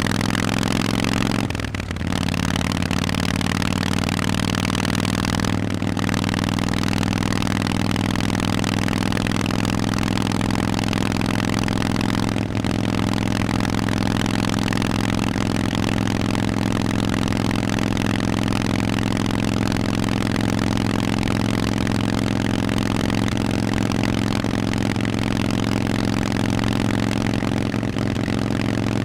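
Harley-Davidson Forty-Eight's air-cooled Sportster V-twin running through Vance & Hines aftermarket exhausts while riding, mostly steady at cruising revs after a slight rise at the start, with brief dips in the engine note about 2, 6 and 12 seconds in.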